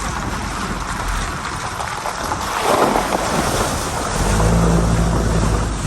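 1985 Toyota pickup driving on a rough trail: a steady rush of wind and road noise, swelling briefly just under halfway through, with the engine's low hum coming up a little past the middle.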